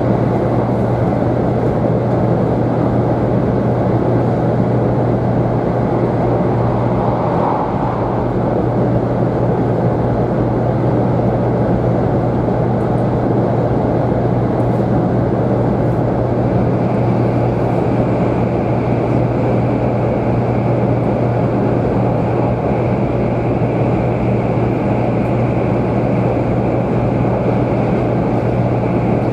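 Steady running noise of a 500 series Shinkansen heard from inside the passenger cabin, a constant low drone under an even rush. A faint high whine joins about halfway through.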